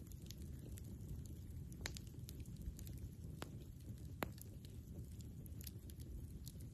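Campfire crackling, with scattered sharp pops of burning wood, one louder pop about four seconds in, over a steady low rumble.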